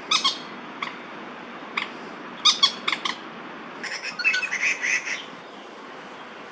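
Common moorhens giving alarm calls: short, sharp single calls spaced through the first three seconds, then a quick chattering run about four seconds in. The calls are a warning at a crested goshawk on the ground nearby.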